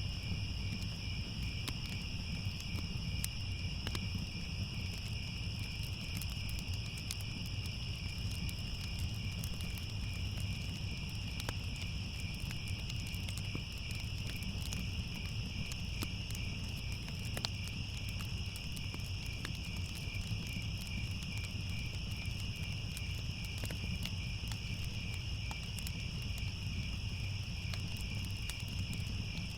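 Crickets chirping in a steady, unbroken chorus, over a low rumble with scattered faint crackles.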